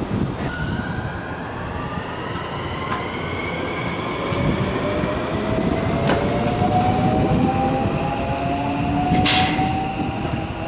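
Electric limited express train pulling out of the station, its motor whine rising steadily in pitch as it gathers speed over the rumble of the wheels. There is a single click about six seconds in and a short hiss about nine seconds in.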